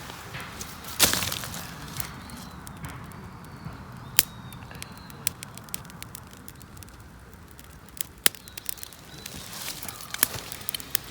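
Damp kindling just lit in a small fire pit, giving off scattered sharp snaps and pops, with one louder crack about a second in, over a low steady outdoor rumble.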